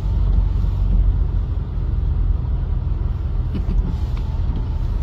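Steady low rumble from a clip that cuts in abruptly, with a few faint knocks in the second half.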